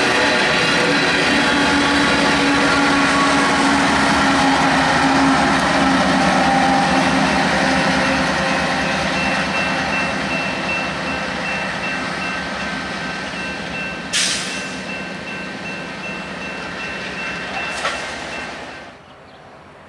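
Union Pacific diesel locomotive at the rear of an empty coal train passing at speed, with engine and steel wheels on rail, then fading as it moves away from about eight seconds in. A brief rush of noise comes about fourteen seconds in, and the sound drops off sharply near the end.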